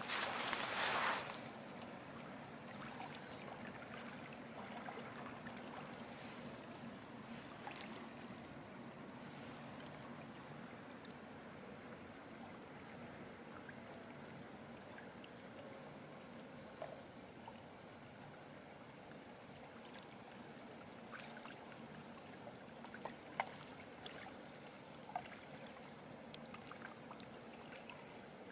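Project 26-37 passenger river ship's engines running as a steady low hum, with water washing. A brief loud rush of noise comes right at the start, and a few faint clicks sound later on.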